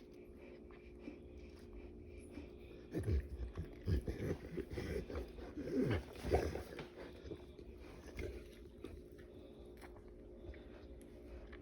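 Cane Corso in labor making several strained, falling groans about three to seven seconds in while pushing, over a steady low hum.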